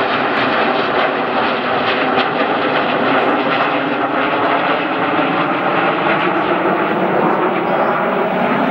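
Formation of BAE Hawk T1 jet trainers flying an aerobatic display, a steady loud jet-engine sound with a layered whine.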